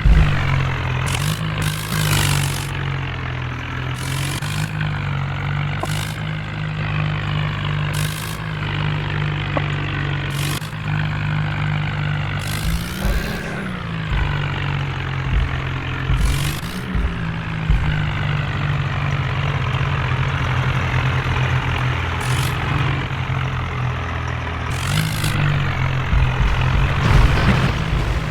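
A tractor engine running steadily, with short bursts of noise every couple of seconds over it.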